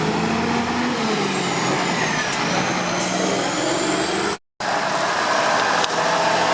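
Lorry engine running steadily as the truck moves past, its note dipping in pitch about a second in, with a thin high whine sliding down above it.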